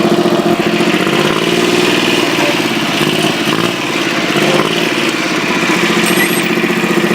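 Small tractor engine running steadily, its pitch dipping and rising a little in the middle as the throttle or load changes.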